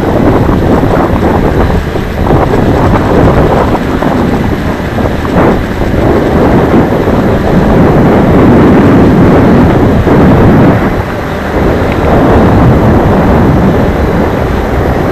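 Strong wind buffeting the microphone: a loud, rough rumble that swells and dips with the gusts.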